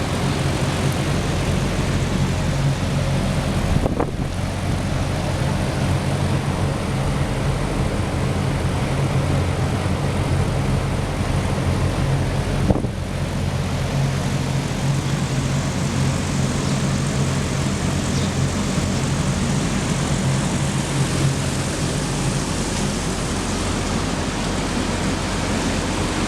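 Fujitsu ducted inverter heat pump running flat out in heating mode: outdoor fans at high speed and the compressor at full capacity make a steady whoosh over a constant low hum. Two faint clicks come about 4 and 13 seconds in.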